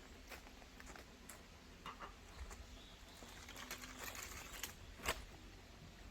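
Wild birds chirping faintly, with scattered small clicks and knocks; a sharper click about five seconds in is the loudest sound.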